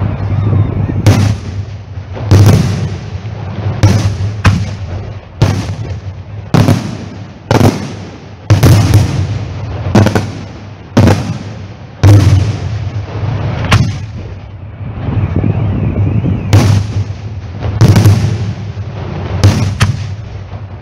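Heavy fireworks going off: a string of loud bangs, about one a second, each trailing a short echo over a steady low rumble, with a brief lull about two-thirds of the way through.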